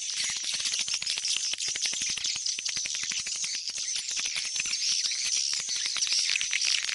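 Swiftlets calling: a dense, continuous chorus of rapid high-pitched chirps and clicking twitters. It is a swiftlet lure call of the kind played to draw birds back into a swiftlet house.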